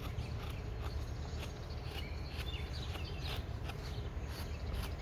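Birds chirping outdoors, with several short chirps about midway, over a steady low rumble and a scatter of short clicks.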